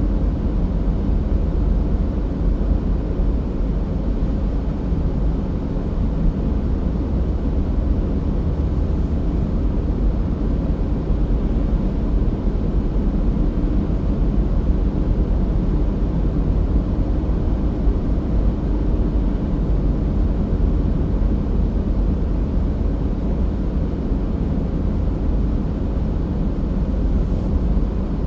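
Car driving at a steady pace: a constant low road and engine rumble.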